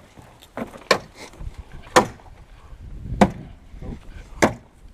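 Four sharp, evenly spaced knocks about a second and a quarter apart: a tool striking a car part repeatedly, as when hammering a stuck part loose.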